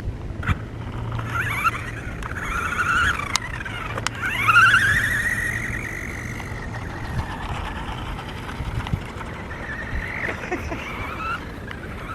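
Toy remote-control trucks' small electric motors whining, the pitch rising and falling again and again as they speed up and slow down, loudest about four and a half seconds in, with a few sharp clicks.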